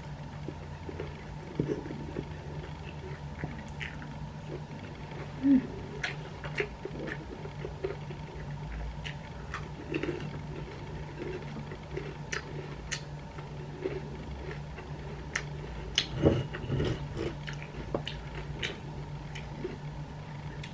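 A person chewing food close to the microphone, with wet mouth smacks and scattered short clicks and crunches, and a few louder mouth sounds about five seconds in and again near the end. A steady low hum runs underneath.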